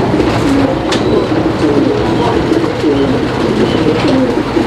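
Domestic fancy pigeons cooing, several birds overlapping in a continuous chorus of low, rolling coos.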